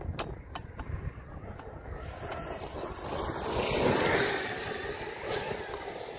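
Traxxas X-Maxx radio-controlled monster truck driving, its electric motor and tyres growing louder to a peak about four seconds in, then easing off as it passes.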